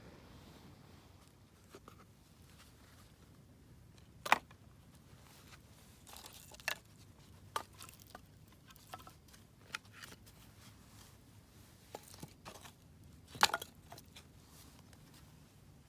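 Irregular sharp snaps and crackles of dry wood, with two loud cracks about four seconds in and near the end and fainter snaps between.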